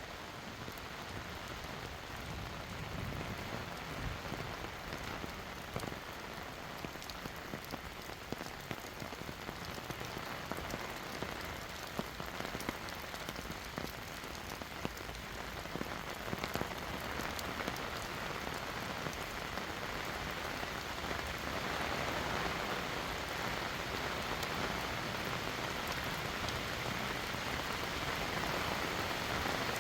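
Heavy rain falling: a dense, steady patter of drops that grows somewhat louder about two-thirds of the way through.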